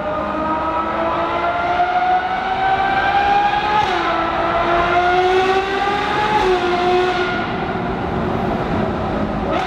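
V12 engine accelerating hard through the gears. Its pitch climbs steadily and falls suddenly at each upshift, clearly twice, about four and six seconds in.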